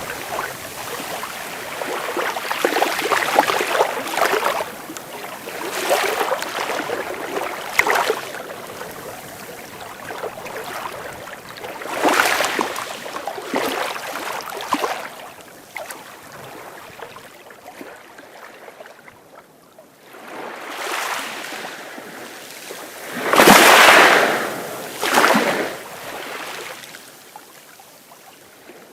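Sea waves breaking and washing up the shore one after another, each a swelling rush of foamy noise that fades back; the loudest break comes about two-thirds of the way through, followed quickly by a smaller one.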